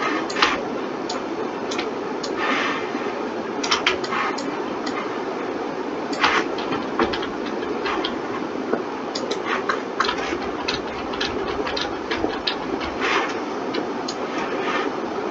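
Irregular clicks of a computer mouse and keyboard, scattered a few times a second, over a steady hum.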